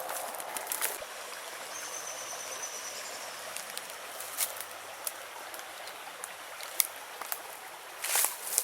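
Creek water flowing steadily, with a few sharp clicks and crackles near the start and again near the end.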